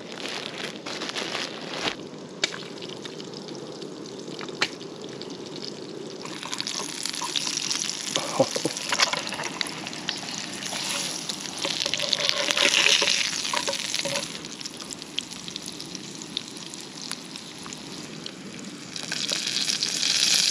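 An egg sizzling as it fries in a skillet on a canister camp stove. The sizzle grows louder from about six seconds in. Before that, a plastic bread bag rustles and clicks as it is handled.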